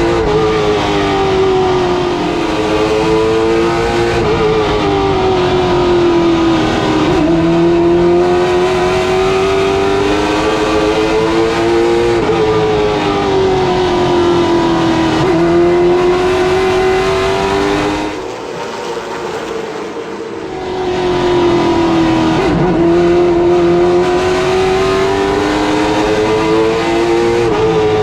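A late model stock car's V8 engine running at racing speed on a short oval. Its pitch climbs steadily, then drops sharply every few seconds as the driver lifts for the turns and gets back on the throttle. The sound turns briefly quieter about two-thirds of the way through.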